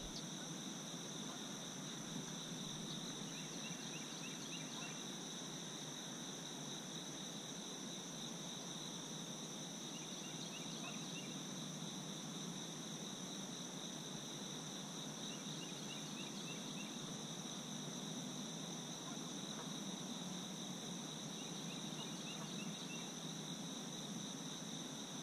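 Steady high-pitched chorus of insects singing together, with a short rapid chattering call repeated about every six seconds.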